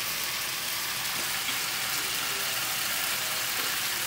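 Beef, onion and green onions sizzling steadily in a wok over a gas flame.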